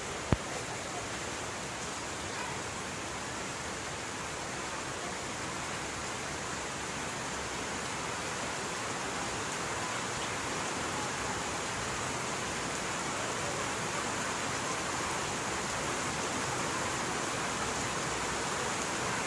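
Steady rain falling, an even hiss throughout, with a single sharp click about a third of a second in.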